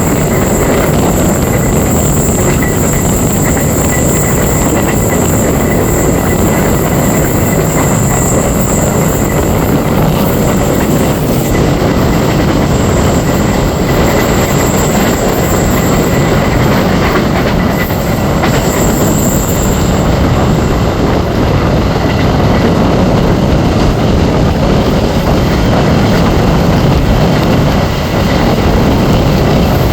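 Gaya Baru Malam Selatan passenger train running on the rails: a steady, loud rumble of wheels on track with clickety-clack. A thin high whine carries through and fades out about two-thirds of the way in.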